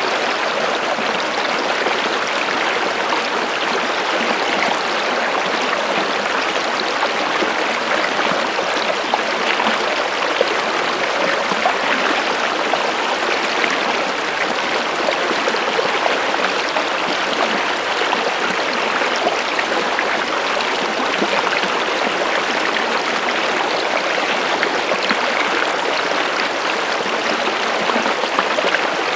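Steady running water of a stream, a continuous even rush with fine splashing and trickling detail.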